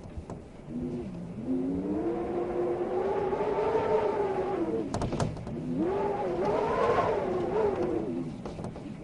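A motor vehicle's engine running nearby, its pitch climbing and dropping as it speeds up and eases off twice, over a faint hiss of wind. There are a couple of sharp clicks midway through.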